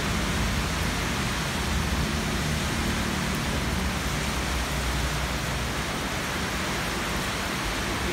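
Steady rain falling on a wet concrete terrace, an even hiss of rain that does not let up.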